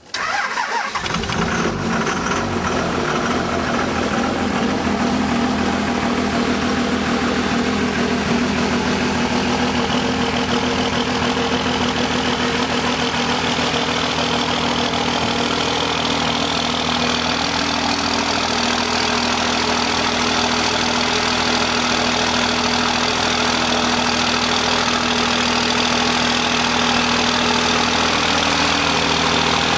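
Cold start of a 2002 Dodge Ram 2500's 5.9-litre inline-six Cummins turbo diesel at about −16 °C with no block heater: it cranks briefly, catches within about a second, then idles steadily with diesel clatter.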